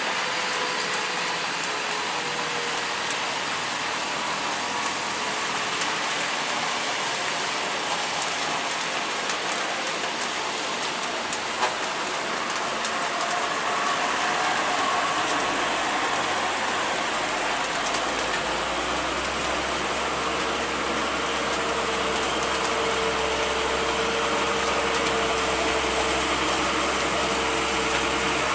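Steady rain hiss with truck engines whining as they labour uphill; a deeper engine rumble comes in a little past halfway and holds.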